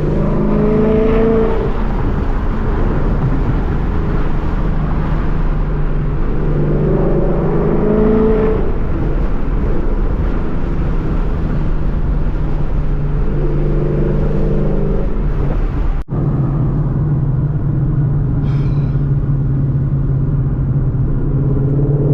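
2014 Ford Mustang GT's 5.0-litre V8 running while driving, its exhaust note rising and falling a few times. There is a sudden brief break in the sound about two-thirds through, after which the engine runs steadier and lower.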